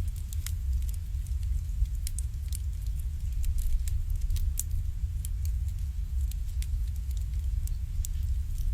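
Wood fire burning in an irori (Japanese sunken hearth), crackling with irregular sharp pops and snaps over a steady low rumble.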